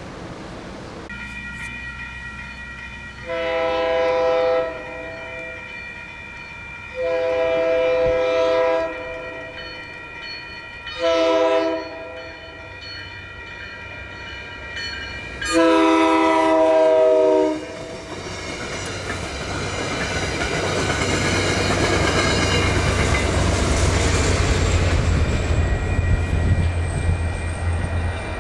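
Locomotive air horn sounding the grade-crossing signal, long, long, short, long, as a train approaches, followed by the train passing with a steady low rumble and wheel noise on the rails. A thin high whine slowly rises in pitch near the end.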